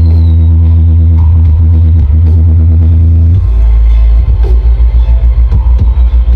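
Very loud, bass-heavy electronic dance music from a truck-mounted carnival sound system. Deep held bass notes give way, about halfway through, to a fast run of bass beats.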